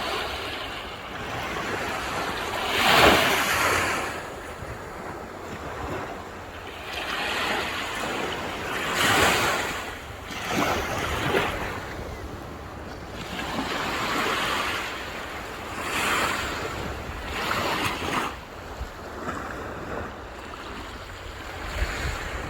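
Sea waves breaking on the shore, the surf surging and washing back every few seconds, the biggest wave breaking about three seconds in.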